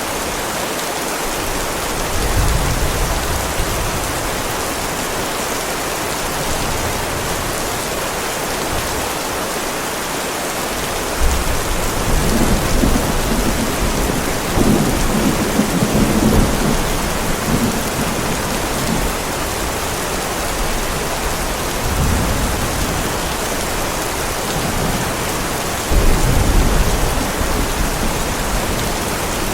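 Heavy rain falling steadily on a driveway, with several low rumbles of thunder; the longest roll comes near the middle and lasts several seconds.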